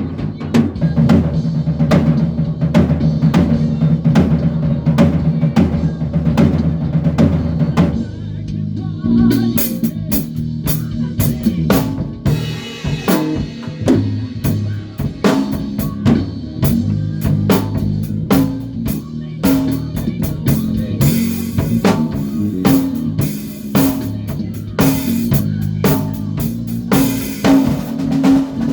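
Band rehearsing a song: drum kit keeping a steady beat under a bass guitar line. About eight seconds in the part changes and cymbals come in, with longer cymbal crashes near the end.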